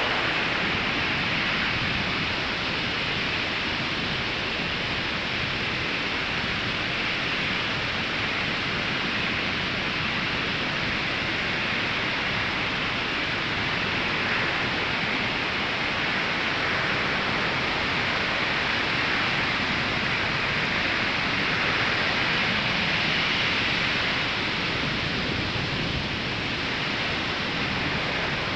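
Ocean surf washing onto a sandy beach: a steady rush of breaking waves that swells slightly a little past two-thirds of the way through.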